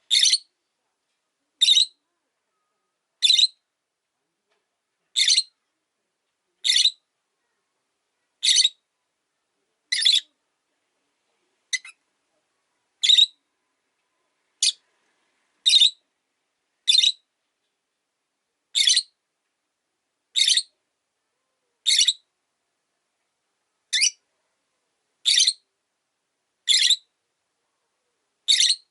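Rosy-faced lovebird giving short, sharp, high-pitched calls, one every one to two seconds, about twenty in all.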